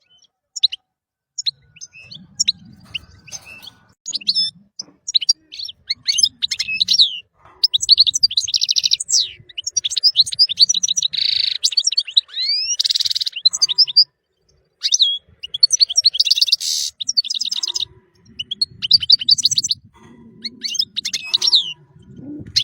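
European goldfinch singing: rapid twittering phrases of quick trills, chirps and buzzy notes, in bursts broken by short pauses.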